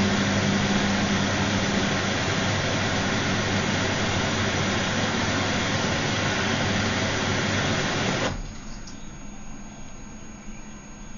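Gala GL605T washing machine running with a steady, loud whirring drone and a low hum, which cuts off suddenly about eight seconds in, leaving only a faint background.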